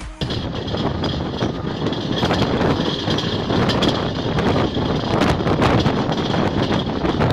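Running noise of a moving double-decker express passenger train, heard from an open coach doorway: a steady rush with the wheels clattering and clicking over the track.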